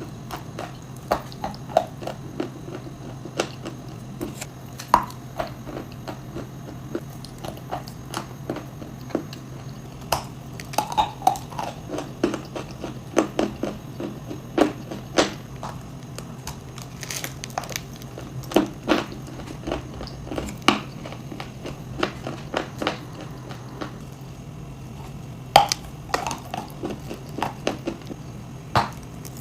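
Crunching and chewing of chalk and clay: sharp, crisp bites and crumbles at irregular intervals, some in quick clusters of several crunches.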